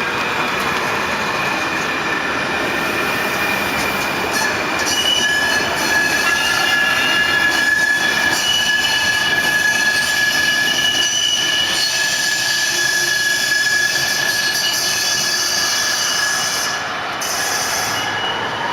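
LRT train running, a loud continuous rumble and rush with several steady high-pitched squealing tones over it; the presenters call it annoying.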